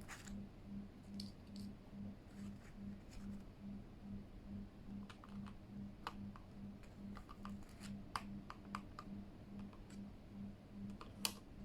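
Scattered light plastic clicks of keycaps being pulled off and fitted onto a Keychron K8 mechanical keyboard, with a quicker run of clicks midway, over a faint low hum that pulses about three times a second.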